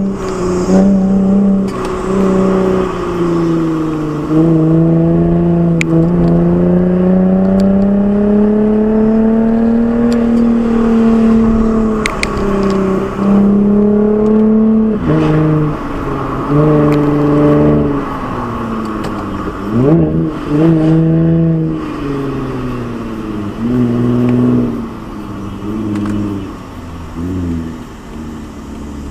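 Lexus IS with an Fi aftermarket exhaust under hard driving: the exhaust note climbs as the revs build, then drops in steps at gear changes, with a quick rev blip about twenty seconds in.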